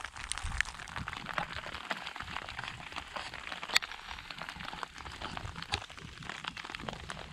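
Heavy rain and hail pelting down: a dense patter of sharp ticks, with one louder crack nearly four seconds in.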